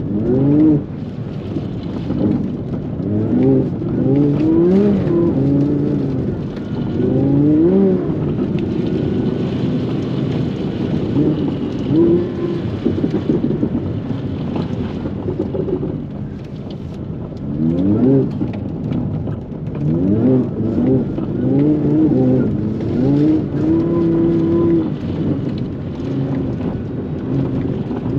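Engine of an MTM-tuned Audi R8 of over 800 PS driven on an ice track, revving up and down again and again in quick rising pulls, with a steadier held note near the end.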